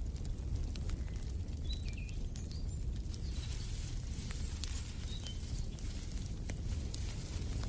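Wood fire crackling, with irregular sharp pops over a steady low rumble. A few short bird chirps come about two seconds in and again around five seconds in.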